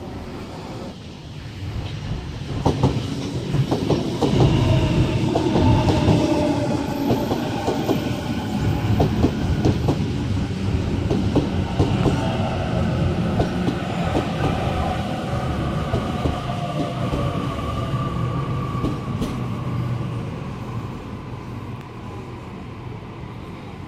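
Sydney Trains Waratah electric train running along the platform, its wheels clicking over the rail joints. The sound builds over the first few seconds and is loudest with the clicking, then the motor whine slides down in pitch and the noise fades.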